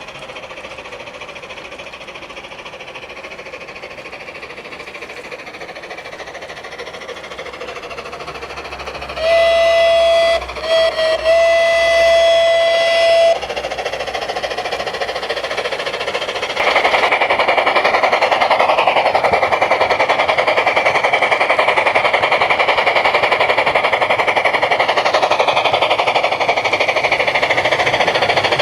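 Märklin Gauge 1 Gt2 4/4 Mallet locomotive model's onboard steam sound: soft chuffing, then a steady whistle of about four seconds with two short breaks near its start. Well after the halfway point, a louder, faster, even chuffing takes over.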